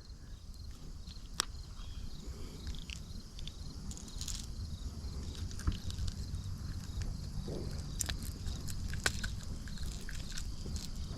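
Faint scattered clicks and rustling from a fish and tackle being handled in a kayak, over a low steady rumble.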